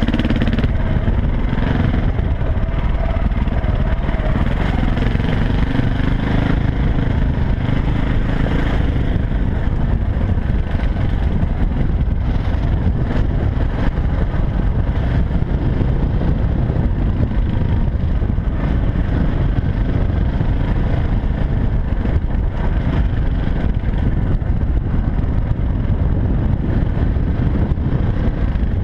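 Dirt bike engine running while being ridden, its note rising and falling with the throttle over the first several seconds, then lost in a steady low rumble.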